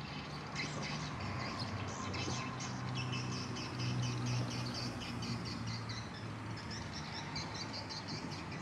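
A flock of edible-nest swiftlets twittering, a dense run of rapid high chirps, over a steady low hum.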